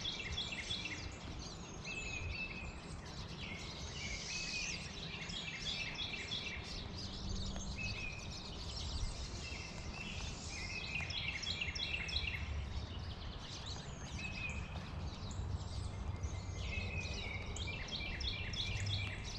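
Songbirds singing short chirping, trilling phrases that recur every few seconds over a steady low background rumble.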